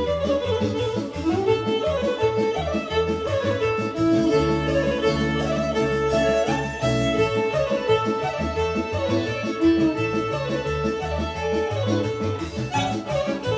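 Serbian kolo folk dance medley played by a band with a violin leading over a continuous bass line.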